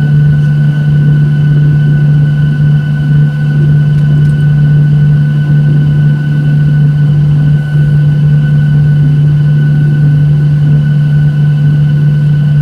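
Steady engine drone inside the passenger cabin of a Boeing 737-800, from its CFM56-7B turbofans: a constant low hum with a thin, high steady whine above it.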